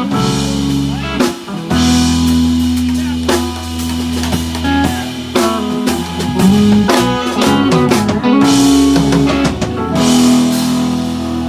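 A band plays an instrumental passage of a country-rock song on guitar, bass and drum kit, with no vocals yet.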